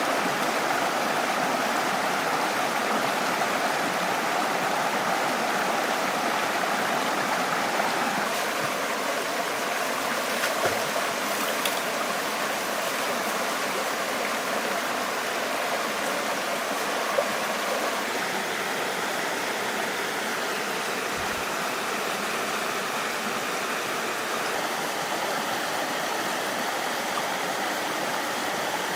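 Flowing water running steadily, like a stream, with a few faint knocks partway through.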